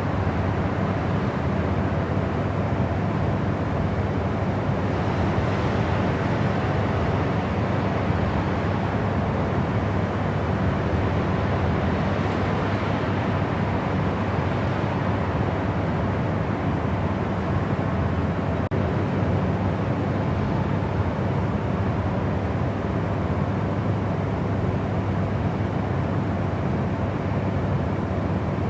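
Steady white noise, a constant even rush that is strongest in the low and middle range and thins out toward the top, with a faint steady hum underneath.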